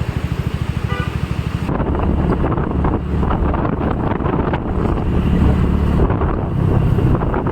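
Wind buffeting the microphone over the steady running of a vehicle's engine while on the move.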